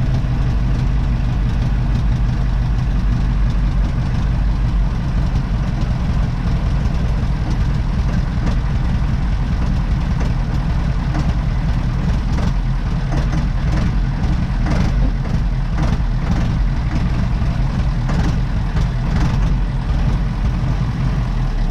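Massey Ferguson 2805's Perkins V8 diesel engine idling steadily in neutral, running for the first time after sitting for over two years.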